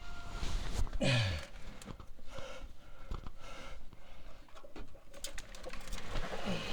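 Small metal clicks and scrapes of a pointed pick working an old, brittle rubber seal out of an oil filter adapter, with two low falling groans of effort, about a second in and near the end.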